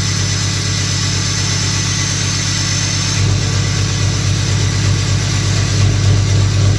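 2014 Ram's 6.7 Cummins inline-six turbo-diesel idling steadily after a cold start, through a 4-inch straight-pipe exhaust with the emissions equipment deleted. A faint high whine sits over it for the first three seconds.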